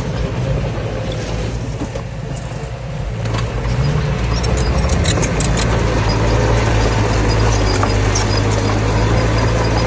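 Diesel engine of heavy earthmoving machinery running steadily and growing louder about three to four seconds in, with scattered high metallic clicks and squeaks.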